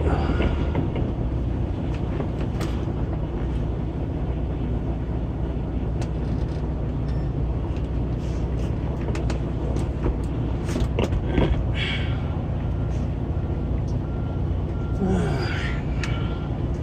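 Semi truck's diesel engine running steadily at low speed while the rig is maneuvered, with a few clicks and knocks. A faint, evenly repeating beep, a reversing alarm, joins in the last few seconds.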